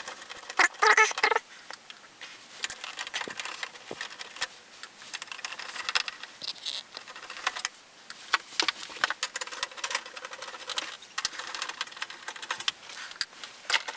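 Hands working on a VCR's plastic casing and parts: irregular small clicks, taps and rattles with brief rustling, densest about a second in and again in the second half.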